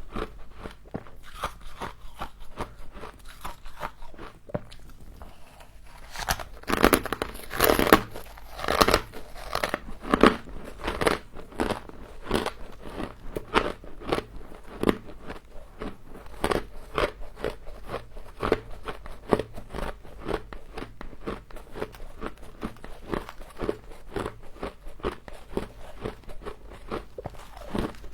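Close-miked crunching of humidifier frost being bitten and chewed: rapid, dense crackling crunches, loudest between about six and eleven seconds in.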